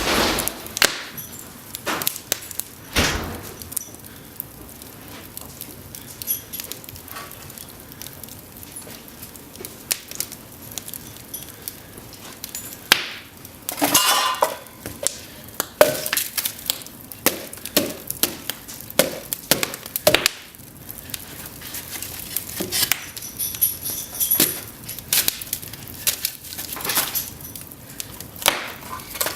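Cedar burning in an open fireplace, crackling with irregular sharp snaps and pops over a low steady hiss; the pops come thickest about halfway through.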